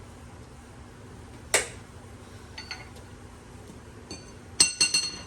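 Metal tools and steel parts clanking and clinking: one sharp clank about a second and a half in, a few light clinks, then a quick run of three or four ringing metal clinks near the end.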